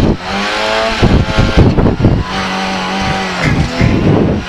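Lada 2107 rally car's engine running hard at high, fairly steady revs, heard from inside the stripped cabin, with a few sharp knocks over it.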